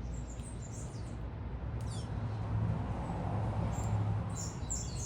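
Small birds chirping in short high notes, a few near the start and a cluster near the end, over a steady low rumble of city traffic that swells a little in the middle.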